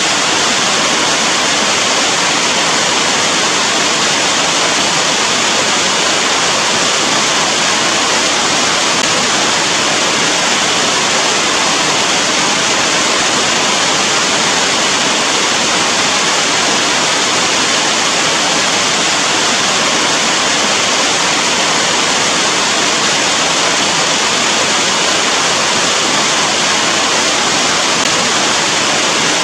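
Steady heavy rain: a dense, even hiss of falling water with no single drops standing out.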